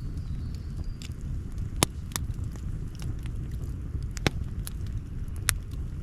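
Campfire burning, with about five sharp wood pops and crackles scattered over a steady low rumble. The loudest pop comes about two seconds in.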